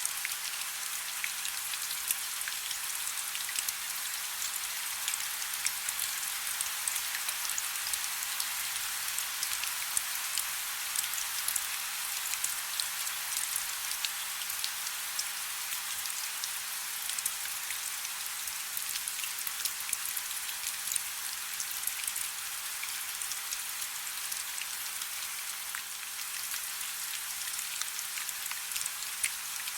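Soft rain falling steadily: an even hiss with a dense patter of fine drops.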